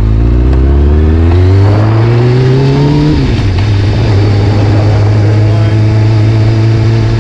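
Carbureted inline-four engine of a 2001 Kawasaki ZX-6R idling while it warms up after a cold start. For about the first three seconds an engine note climbs steadily in pitch, then drops away, and the idle runs on steady.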